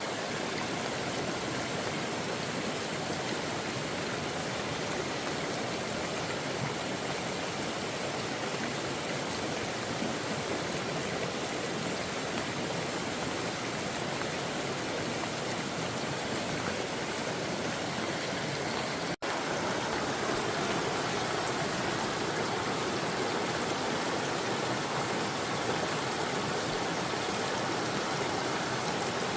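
Steady rushing of flowing floodwater, an even water noise with no pauses, broken only by a split-second dropout about two-thirds of the way through.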